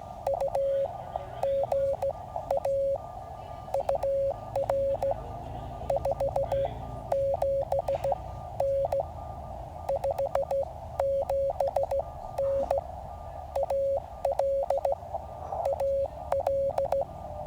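Morse code from a QCX mini QRP CW transceiver: a tone of about 600 Hz keyed on and off in dots and dashes over steady receiver hiss, with small clicks as the tone switches.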